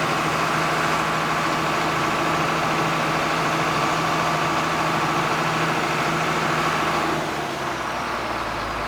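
John Deere 4755 tractor's six-cylinder turbo-diesel running steadily just after firing up on cranking. About seven seconds in, the engine speed drops to a lower, slower note.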